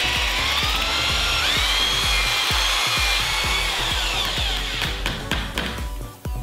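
Corded electric drill with a paddle mixer churning sodium silicate casting sand in a plastic bucket. The motor whine rises about a second and a half in, then winds down and stops a little before the end. Background music with a steady beat plays underneath.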